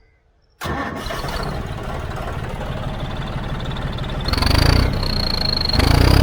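John Deere 5310 tractor's diesel engine running, with an aftermarket turbo whistle on the silencer giving a high, steady whistle over it. The engine sound cuts in suddenly about half a second in, and the engine is revved twice, about four and six seconds in, the whistle rising a little with each rev.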